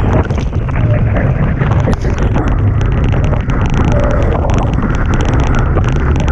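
Strong wind buffeting the microphone, with the rush and hiss of water past the hulls of a Hobie Tiger catamaran sailing fast in about 30 knots of wind. It is loud and steady throughout.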